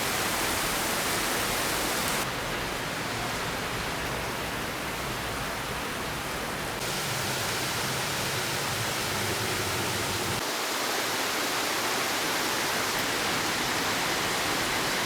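Steady rushing noise, like running water or rain, that changes character abruptly about 2, 7 and 10 seconds in.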